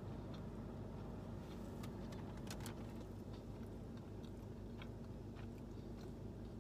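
A person chewing a mouthful of sub sandwich with lettuce and cucumber, with scattered soft wet clicks from the mouth, over a steady low hum.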